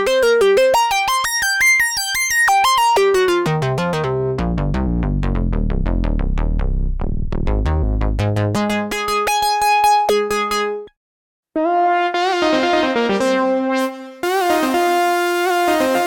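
Sequential OB-6 analogue polysynth playing preset patches. It opens with a fast run of short sequenced notes, moves to deep bass notes and then held tones, and after a brief silence about eleven seconds in, a new patch plays held chords.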